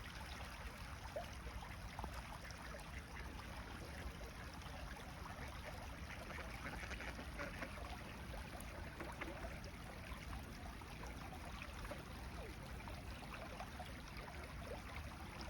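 Steady babble of running water, with many small trickling ticks throughout.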